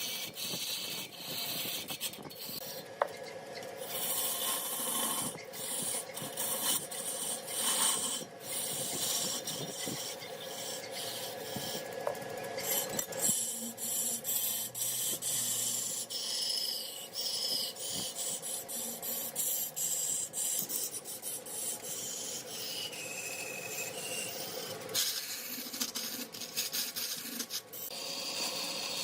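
Spinning mahogany on a large woodworking lathe being worked by a hand-held tool: a harsh rasping hiss that swells and fades in uneven strokes over the lathe's steady hum.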